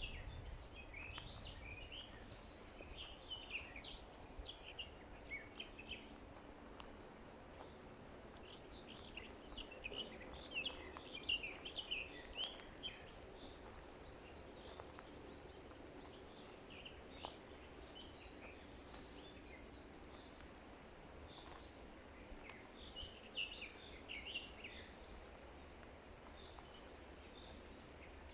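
Small songbirds chirping and twittering in several bursts of quick, high notes, over a faint steady background hiss of forest ambience.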